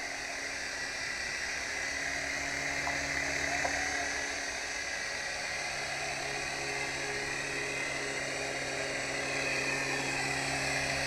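Small electric motors and rotors of a cheap toy RC helicopter whining steadily as it flies.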